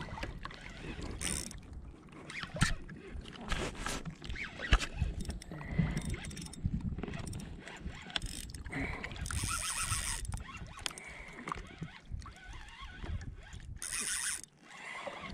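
Knocks, clicks and rustling of gear being handled aboard a fishing kayak, with water sounds and two louder rushing noises, about nine seconds in and near the end.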